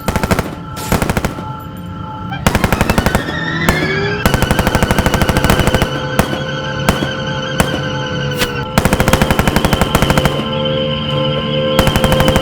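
Repeated bursts of rapid automatic machine-gun fire, some bursts lasting a couple of seconds, over music with sustained notes.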